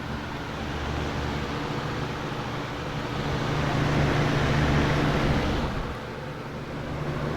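Lasko WeatherShield box fan running on high speed: a steady rush of air over a low motor hum. It gets louder around the middle and drops back about six seconds in.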